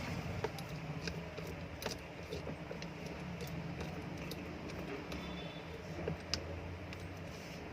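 Light metallic clicks and ticks from a bearing puller being fitted and worked on an exhaust fan motor's shaft to pull off its worn bearings, with a steady low hum underneath.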